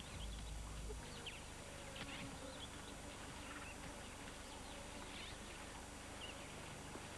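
Faint, scattered short chirps of wild birds over a quiet, steady background hush.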